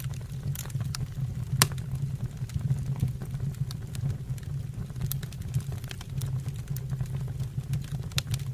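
Fire in a fireplace crackling: frequent sharp snaps and pops over a steady low rumble, with one louder snap about a second and a half in.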